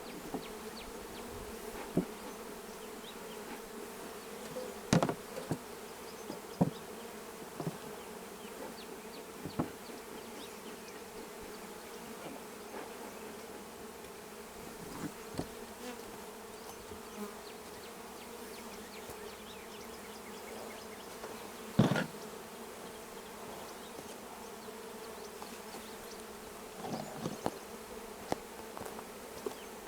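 Honeybee colony buzzing steadily at an open hive. Several sharp knocks come through the buzz, the loudest about two-thirds of the way through, as the wooden hive cover is handled and set in place.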